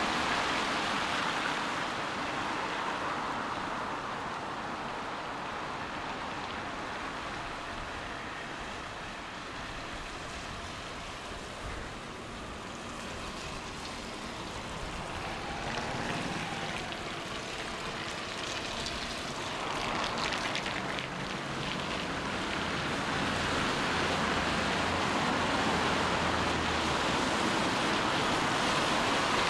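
Rain falling on a city street, with the hiss of car tyres on the wet road swelling at the start and again toward the end. A low hum comes in for a few seconds in the middle.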